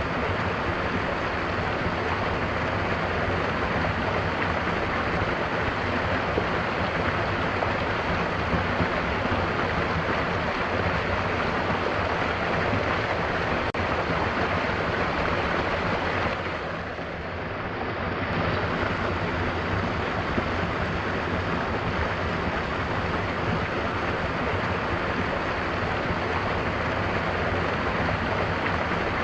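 Mountain waterfall, falling water rushing steadily, with a brief dip in loudness a little past halfway.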